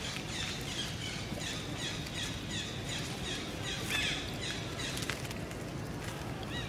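Birds calling: a quick, steady run of short, high, falling chirps, about two or three a second, over a steady outdoor hiss.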